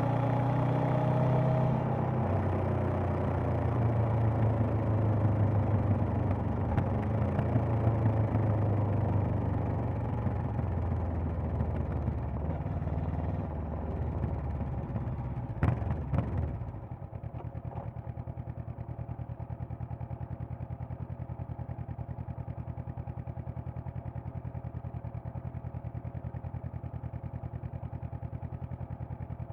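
Honda CB500X's parallel-twin engine running with wind rush as the bike slows, with a couple of sharp clicks about 16 seconds in. Then it idles steadily at a standstill, the wind gone, for the rest.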